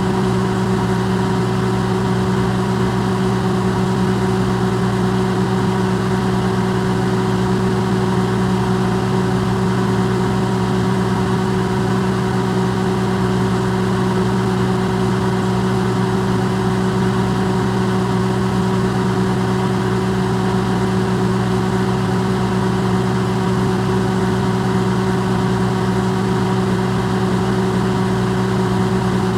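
Electrolux microwave oven running, recorded amplified: a steady, unchanging hum with a low mains-frequency drone and a fan's whir.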